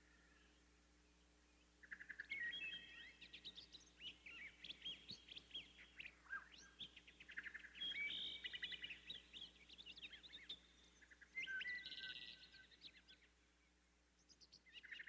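Small birds chirping and singing in several bursts of rapid high chirps and trills. The calls fade away near the end.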